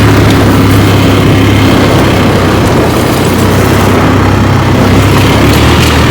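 ATV (quad bike) engine running at a steady pace, a loud low hum with no change in speed.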